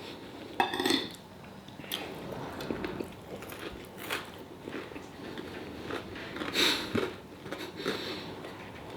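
A person chewing and eating, with scattered small clicks and mouth noises; a few louder bites about a second in and again near the seven-second mark.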